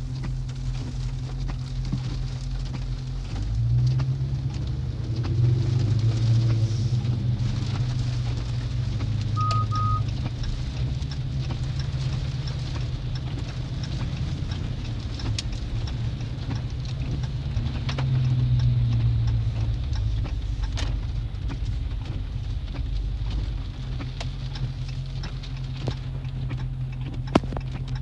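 Dodge Charger Scat Pack's 6.4-litre HEMI V8 engine droning from inside the cabin while driving in the rain. The drone swells as the car accelerates, about four seconds in and again around eighteen seconds, over a hiss of rain and tyres. A short double electronic beep sounds about ten seconds in.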